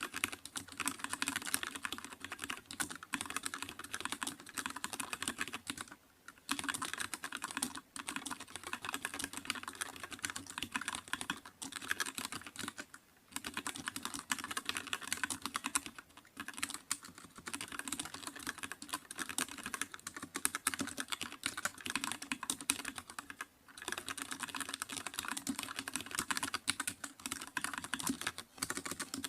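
Continuous fast typing on a computer keyboard, a dense patter of key clicks in runs of several seconds with brief pauses between them.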